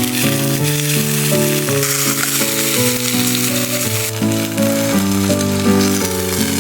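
Food frying and sizzling in a cast iron skillet as a steady hiss that grows a little stronger about four seconds in, with background music playing a plucked-sounding melody over it.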